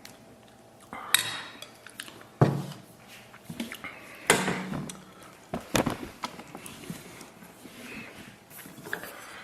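Utensils knocking and scraping against a bowl of food during eating, with four sharp knocks spread through the clip and quieter handling sounds between.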